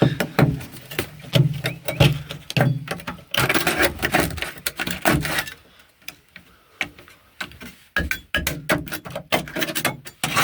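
Hand scraper scraping and chipping sound deadening off a Mk4 Ford Escort XR3i's steel floor pan in quick, irregular strokes with knocks, with a quieter lull of about two seconds partway through.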